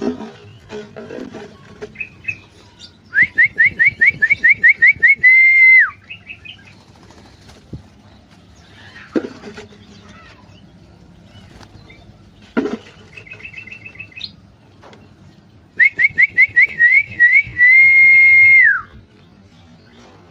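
Bulbul song: twice, a quick run of about ten rising whistled notes ending in a long held whistle that drops at the end. Short chattering calls come in between, with a few knocks.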